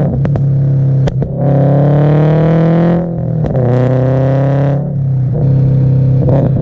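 Scion FR-S (Toyota GT86) FA20 flat-four running on a backfire tune and revved twice, about a second and a half in and again at three and a half seconds. Sharp exhaust pops crack out at the start, about a second in, and near the end.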